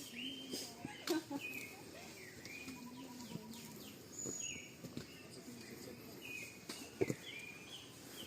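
A bird calling over and over in the forest, short curved notes repeating roughly once a second, with a couple of sharp knocks and faint voices underneath.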